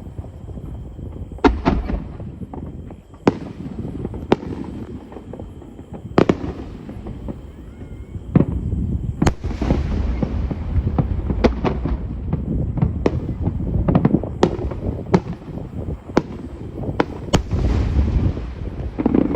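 Aerial firework shells bursting in a series of sharp bangs, roughly one a second at first and coming closer together after about ten seconds, over a low rumble of echoes and crackling between the bursts.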